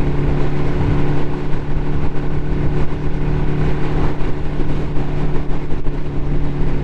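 Ducati motorcycle engine running steadily at an even speed on the road, with no change in pitch, over heavy wind rush on the microphone.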